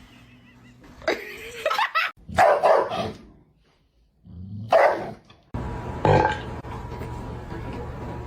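A dog barking about four times, the calls a second or two apart. Midway a steady background hum comes in.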